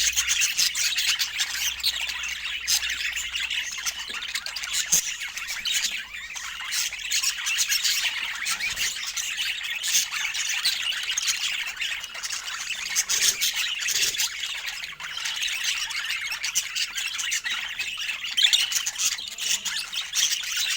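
Budgerigar chatter: continuous high-pitched warbling and chirping, sprinkled with sharp clicks.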